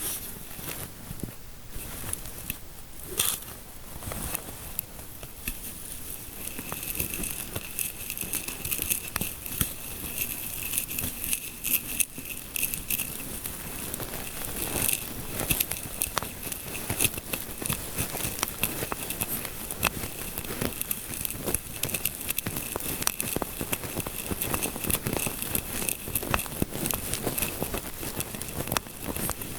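Close-miked ASMR scalp-massage sounds: fingertips scratching and rubbing, giving a dense, irregular crackle with many small clicks.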